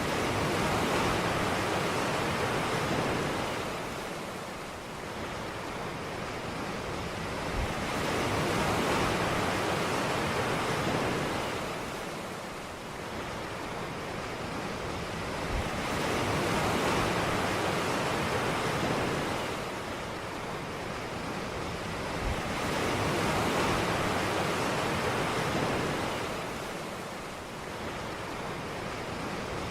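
Ocean surf on a beach: waves breaking and washing in, the hiss swelling and fading about every seven to eight seconds.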